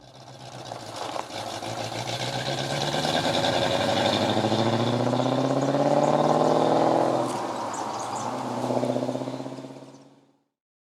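A car engine accelerating, its note climbing steadily for several seconds, then easing off before a second short rise. It fades out near the end.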